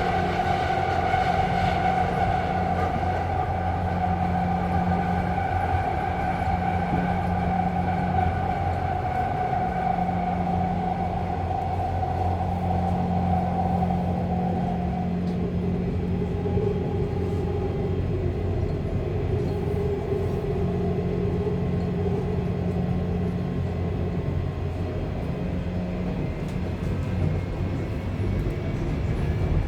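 Subway train running, heard from on board: a steady low rumble with humming tones over it. The higher hum fades about halfway through and a lower one takes its place.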